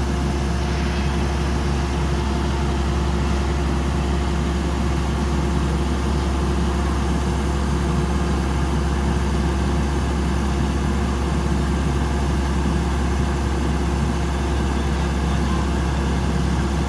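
Combine harvester's diesel engine running at a steady speed, a constant low drone with no change in revs.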